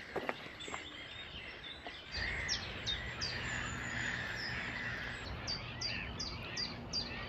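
Common chiffchaff singing: a run of short, evenly repeated high 'chiff-chaff' notes, about three a second, that starts properly in the second half. A low rumble comes in about two seconds in.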